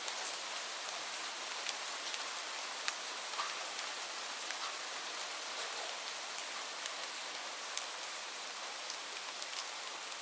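Steady rain falling on leaves: an even hiss with many separate drops ticking on the foliage.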